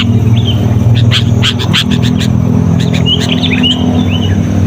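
Sooty-headed bulbul calling busily: a rapid run of sharp chirps, then short slurred whistles in the second half, over a steady low hum.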